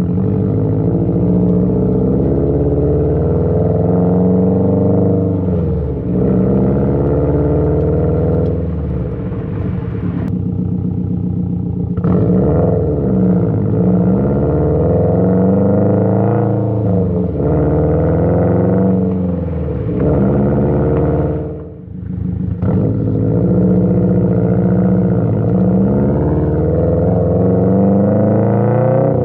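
Subaru WRX STI's turbocharged flat-four through an AWE Track exhaust, driven through the gears: the exhaust note climbs and falls repeatedly as the revs change. There is a brief drop-off about two-thirds of the way through before it pulls again.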